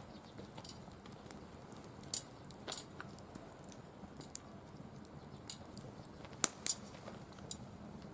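Firewood burning in a wire-mesh fire pit, crackling with scattered sharp pops, the loudest two close together about six and a half seconds in.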